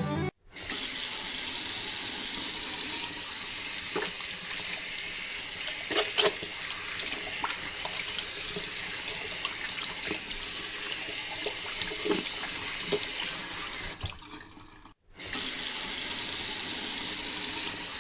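Water pouring in a steady rushing stream, like a pump's outflow splashing into water, with a few light knocks. It cuts off for a moment about fifteen seconds in, then resumes.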